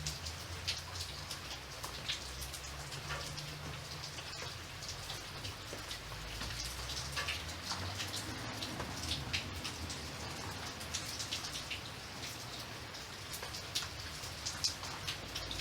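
Steady rain, with many individual drops pattering on a surface over a low rumble.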